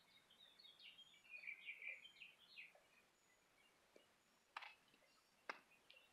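Faint birds chirping in quick, high notes, with two sharp clicks about a second apart near the end.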